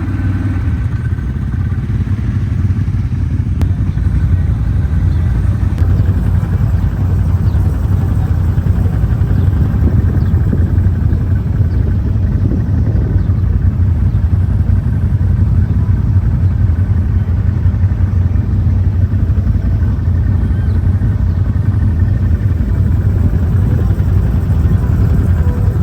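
Off-road vehicle engine running steadily, with a heavy low rumble throughout.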